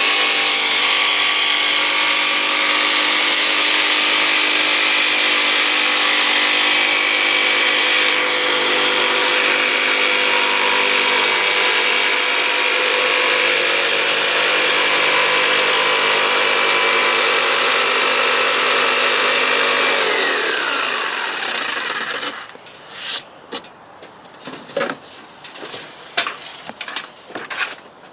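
Electric power saw running steadily as it cuts through a wooden board, its motor whining. About three-quarters of the way in the motor is released and winds down, falling in pitch, and a few scattered knocks and clatters of the wood and tool being handled follow.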